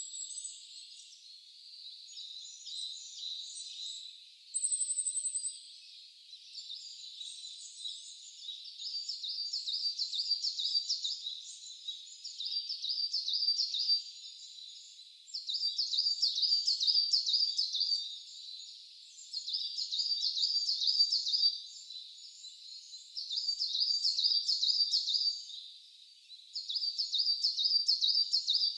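Wild songbirds singing. One bird repeats a rapid, chattering song phrase of many quick notes, each phrase lasting two to three seconds and coming back about every four seconds from about a third of the way in. Before that, a couple of short, thin, high whistles sound over a faint hiss.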